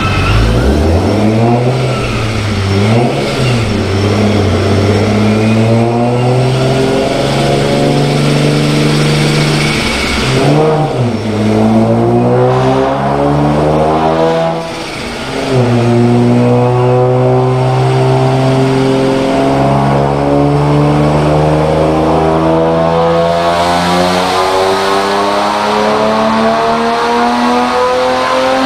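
Forced-induction Ford Mustang 4.0 V6 under hard acceleration, its exhaust note rising in pitch through the gears. The revs drop briefly at shifts about ten and fifteen seconds in, then climb steadily for a long pull.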